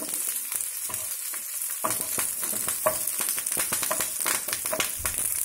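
Garlic cloves, small onions and green chillies sizzling in oil in a non-stick frying pan. A spatula stirring them adds frequent short clicks and scrapes against the pan.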